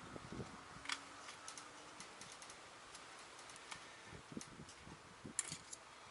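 Faint, scattered clicks and light metal taps from hand tools on the parking-brake shoes and their springs, with a sharper tap about a second in and a quick cluster of taps near the end.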